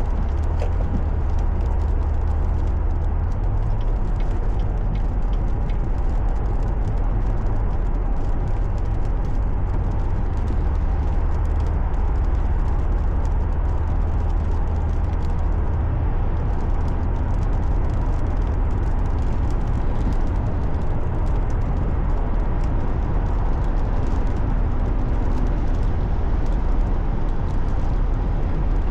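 Steady road and engine noise of a car driving, picked up by a dashcam: a constant low rumble with a haze of tyre noise and no distinct events.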